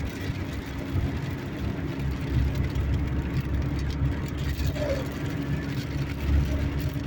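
Car heard from inside the cabin: a steady low engine and road rumble with a constant hum.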